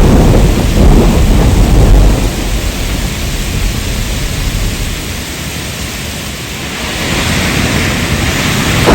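Heavy rain and a thunderstorm: a loud low rumble for about the first two seconds, then steady rain noise that eases off and builds back up near the end.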